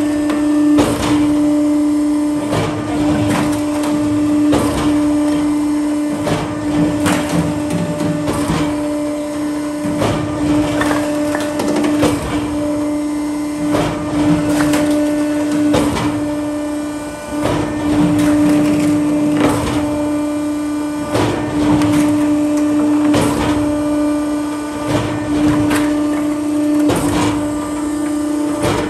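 Hydraulic firewood processor running, its motor and pump giving a steady hum, with repeated cracks and knocks about once a second as logs are split and the pieces drop.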